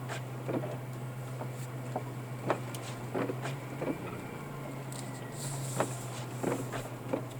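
Car cabin while driving: a steady low engine and road hum, which shifts briefly in pitch about four seconds in, with scattered light clicks and ticks.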